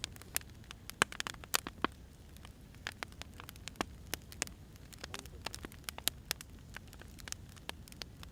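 Firewood burning, crackling with irregular sharp pops of varying loudness over a low steady hiss.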